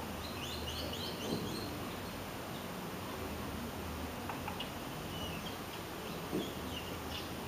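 A small bird chirping in the background, with a quick run of short, high chirps about a second in and scattered single chirps later, over a steady hiss.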